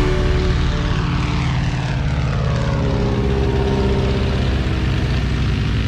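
A light single-engine propeller airplane running steadily, with a sweeping, phasing whoosh in its sound.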